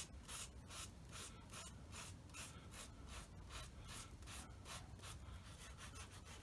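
Faint, quick back-and-forth abrasive strokes, about two to three a second, shaping a freshly glued foam repair on a model plane's tail.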